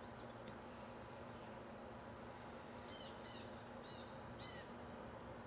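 Faint outdoor birdsong: a bird gives a quick series of short chirps about three to four and a half seconds in, over a steady low background hum.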